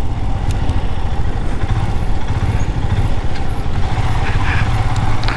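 Motorcycle running steadily on the move, with a dense, even low rumble.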